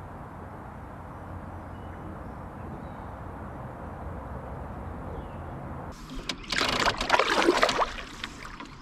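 Low, steady outdoor background noise, then about six seconds in, loud water splashing and sloshing close to the microphone.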